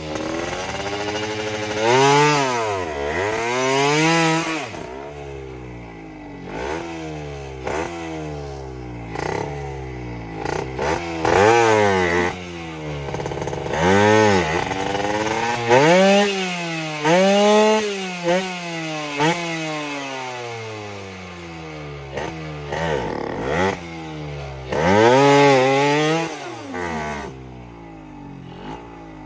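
Two-stroke dirt-bike engine revving up and down repeatedly, its pitch climbing and dropping with each blip of the throttle and settling lower between revs.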